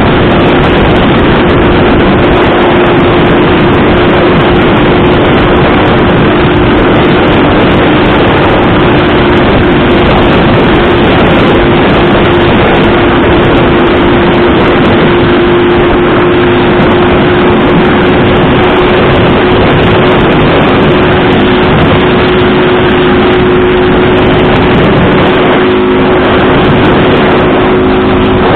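A motor vehicle's engine running steadily under a loud, constant rush of wind and road noise, holding a steady drone throughout.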